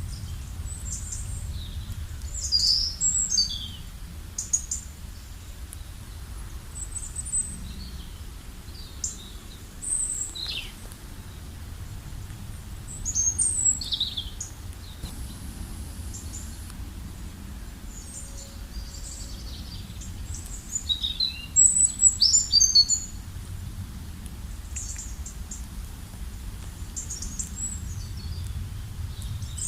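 Songbirds chirping and calling at irregular intervals, with short high trills clustered about three, thirteen and twenty-two seconds in, over a low steady rumble.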